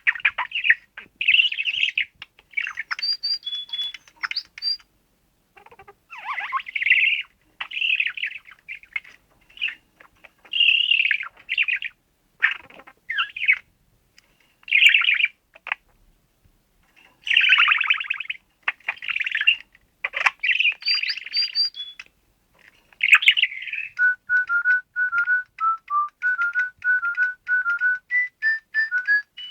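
Budgerigar chattering and warbling in short bursts of scratchy chirps. In the last few seconds a fast run of clean, evenly pitched whistled notes comes in, typical of a DigiBirds toy bird's electronic song.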